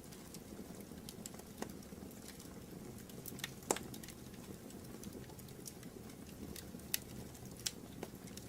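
Fireplace fire crackling: scattered sharp pops at irregular moments over a steady low rustle, the loudest pop a little before halfway.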